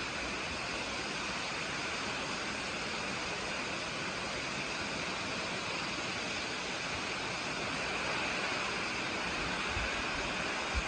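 Steady hiss of hurricane wind and rain, with a couple of brief low thumps near the end.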